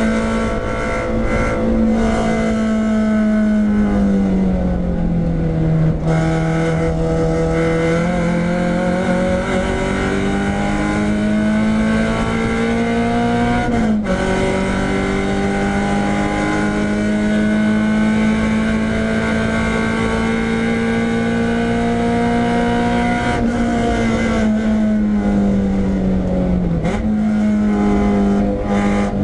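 Renault Clio 172's 2.0-litre four-cylinder engine running hard on track. Its pitch climbs steadily under acceleration and sags under braking, with sudden jumps at the gear changes.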